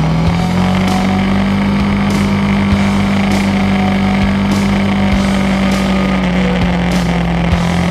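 Motorcycle engine running at steady revs under way, its pitch climbing briefly about a second in and then holding level, with road and wind noise.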